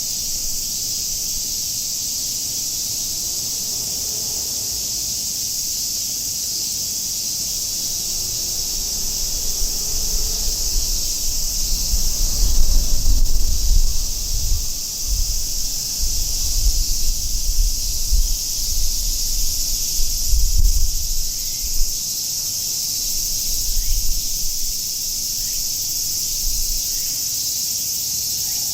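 A chorus of cicadas buzzing as a steady, unbroken high drone. Through the middle an uneven low rumble swells and fades.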